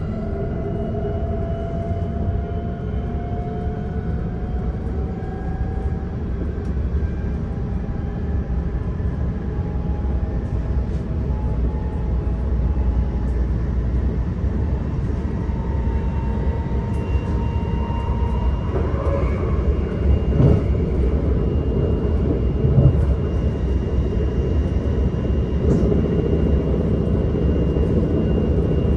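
S-Bahn electric train accelerating: the electric drive whine rises slowly in pitch over a steady rumble of wheels on rails. A few light knocks come through in the second half.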